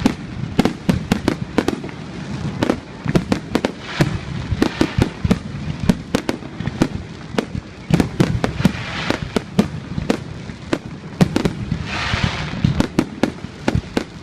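Aerial fireworks display: a dense, rapid run of sharp bangs, several a second, with three longer stretches of hiss among them.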